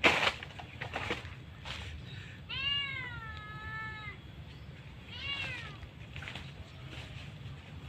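An animal crying twice: a long wavering call, then a shorter falling one. A sharp knock comes right at the start.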